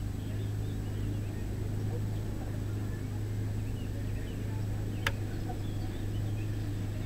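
Steady low hum and rumble of a 2-EPB electric multiple unit, with faint bird chirps and a single sharp click about five seconds in.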